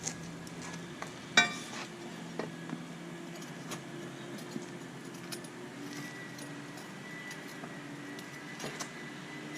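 Light metal clinks and small knocks from handling the lawn sweeper's steel frame, with one sharper knock about a second and a half in, over a steady low hum.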